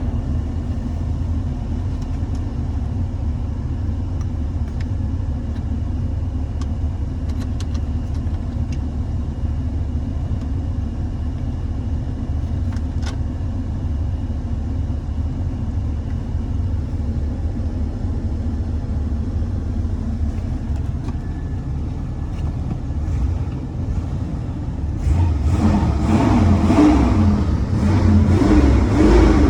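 A 1977 Chevrolet Caprice Classic running, a steady low rumble. In the last few seconds it grows louder, with a wavering pitched sound on top.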